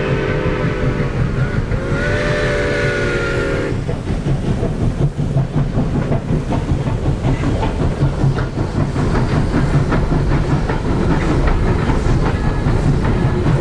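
Southern Railway No. 4501, a 2-8-2 Mikado steam locomotive, sounding its steam whistle twice: a blast ending about a second in, then a second, nearly two-second blast. The train then rolls by with a steady heavy rumble and a rapid clatter of wheels over the rails.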